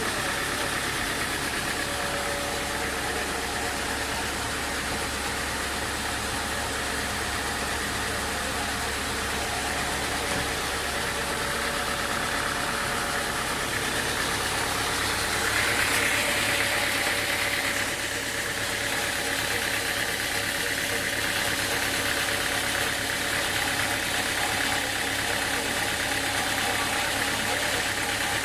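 Sawmill machinery running steadily, with a steady mechanical hum and a brief louder, hissier swell about halfway through.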